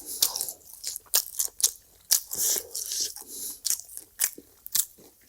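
Close-miked chewing of food, with many sharp, irregular crunches.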